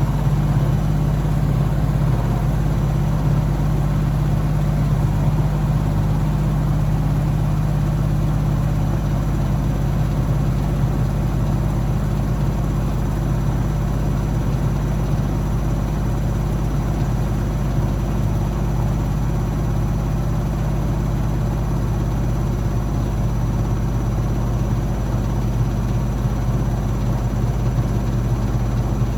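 Blomberg WAF 7442 SL washing machine running, a steady, unbroken motor hum.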